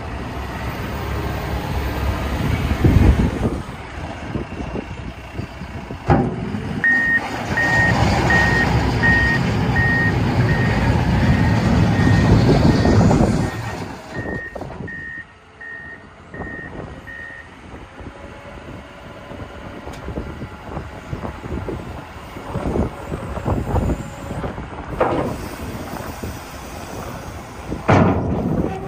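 John Deere 444 P-Tier wheel loader's diesel engine running under load, then dropping to a quieter run about halfway through. Its reverse alarm beeps steadily, about one and a half beeps a second, for around ten seconds while it backs up, with a few knocks and clunks later on.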